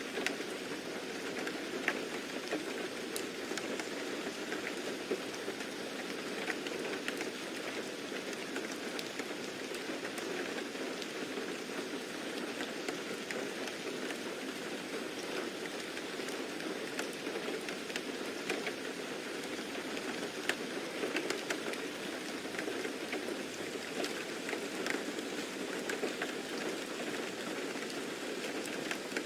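Steady rain falling on a surface, with many small drops ticking throughout.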